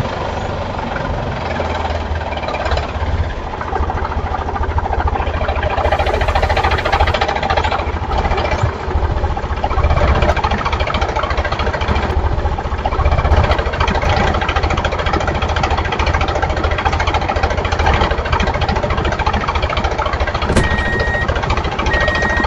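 Diesel tractor engine running steadily with a fast knocking beat.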